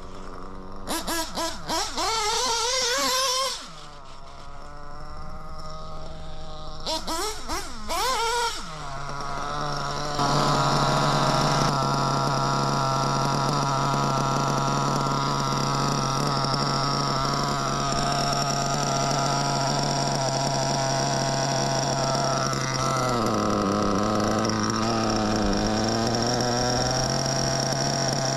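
Reds R5R nitro RC engine running on its freshly replaced bearings: two quick throttle blips with the revs rising and falling, then a steady run from about nine seconds in. Near the end the revs sag briefly and pick back up.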